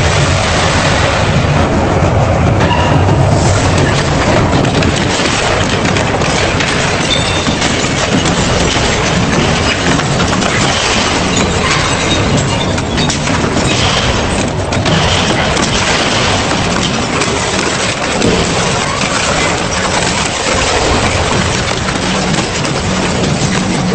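Double-shaft industrial shredder grinding metal: a continuous dense crunching and cracking over a low rumble from the shafts.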